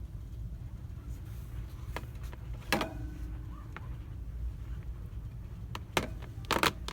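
Steady low hum of store ambience, broken by a few sharp clicks and knocks. The loudest is a quick double knock about six and a half seconds in.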